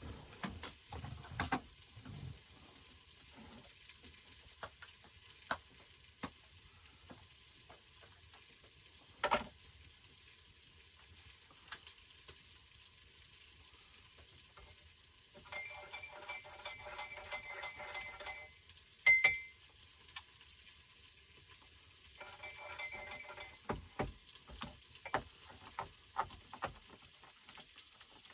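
Food sizzling steadily in a frying pan, with scattered small clicks and knocks of utensils. Twice, around the middle and again later, a utensil stirs rapidly and rhythmically against a pot or cup with a ringing tone. A sharp loud clack comes just after the first stirring.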